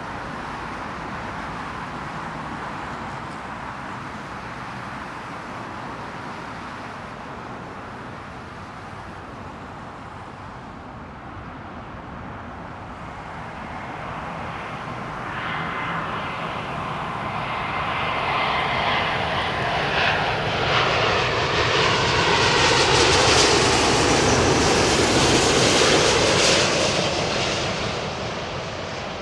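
Jet airliner passing overhead on final approach. Its engine noise swells from about halfway through, is loudest near the end with a falling whine, then starts to fade.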